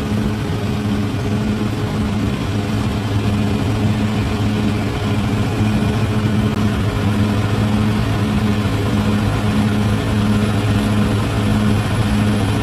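Bulldozer's diesel engine running steadily, a low drone with an even pulsing beat.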